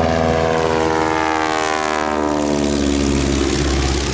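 A propeller airplane passing close by, its engine and propeller tone falling steadily in pitch as it goes past.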